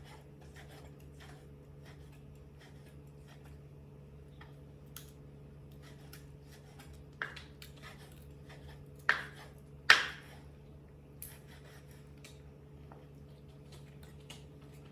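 Kitchen utensils clicking and knocking lightly and irregularly while meat is cut, with three louder sharp knocks about seven, nine and ten seconds in, over a faint steady hum.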